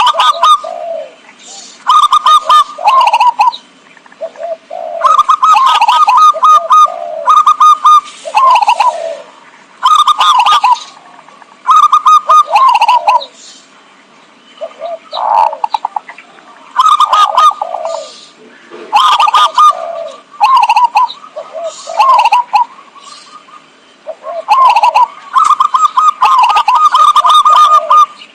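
Zebra dove (perkutut) lure call: phrases of quick staccato cooing notes, repeated every second or two.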